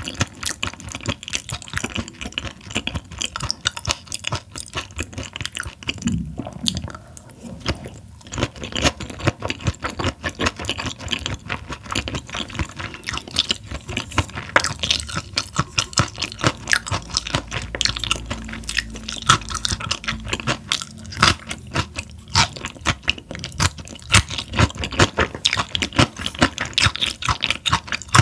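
A person chewing and crunching raw Chinese herring sashimi and seasoned vegetables close to the microphone: a dense run of quick, irregular clicks and crunches.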